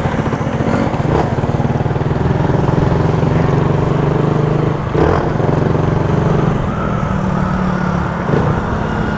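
Motorcycle engine running at a steady speed while riding, with the drive chain slapping, which the rider points out. The pitch shifts a little past the middle.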